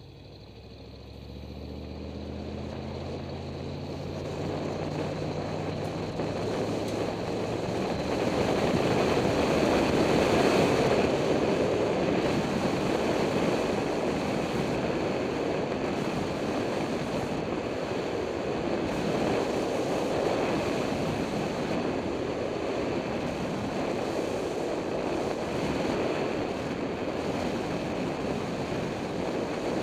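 An engine speeding up over the first few seconds, soon covered by a steady rush of wind on the microphone that builds to its loudest about ten seconds in and then holds.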